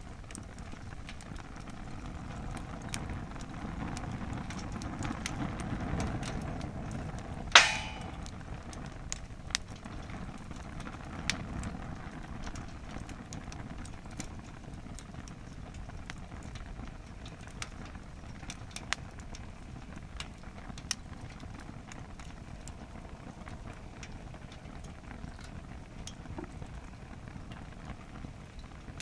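Wood fire in a campfire stand burning hard, heaped past its capacity with firewood: a steady low rush of flames with scattered crackles and pops from the burning wood, and one loud sharp crack about seven and a half seconds in.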